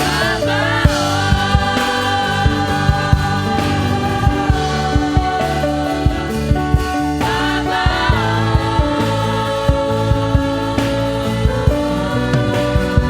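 Gospel worship song performed by a church band: singing over a steady drum beat.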